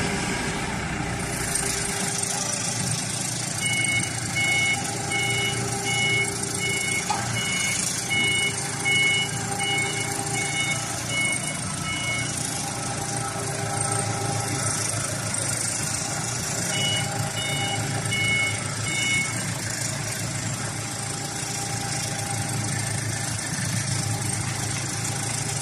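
A vehicle engine running steadily while its reversing alarm beeps in a regular two-tone pattern, about one beep every 0.7 s, in two spells: a longer one starting about 4 s in and a shorter one near 17 s.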